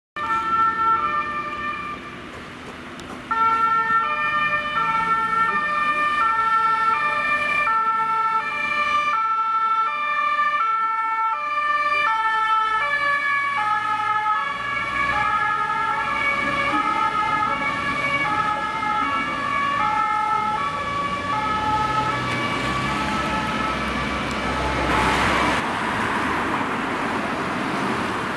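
Fire engines' two-tone sirens (German Martinshorn) sounding, switching between a high and a low note about every half second. From about halfway, a second siren overlaps out of step. Near the end the sirens fade under the rushing noise of a vehicle passing.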